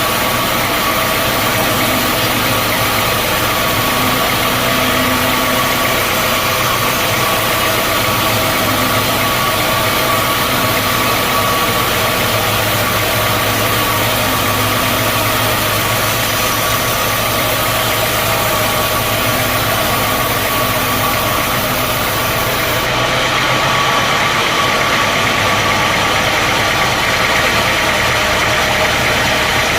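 Sawmill machinery running: a steady, engine-like drone with a constant whine over it.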